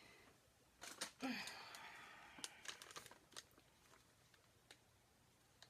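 Soft crinkling and small clicks of a plastic piping bag of whipped soap being handled, loudest a little over a second in and fading away to near silence.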